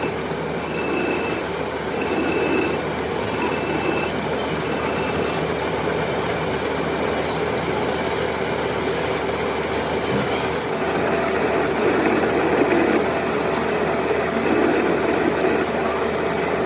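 Metal lathe running steadily while machining a cast-iron pulley. A faint high whine comes and goes in the first few seconds, and the sound turns brighter and harsher about eleven seconds in.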